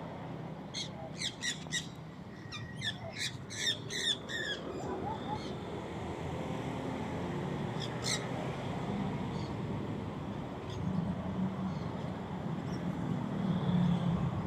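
A bird squawking in a quick run of about a dozen sharp calls, then once more a few seconds later, over a steady low background hum.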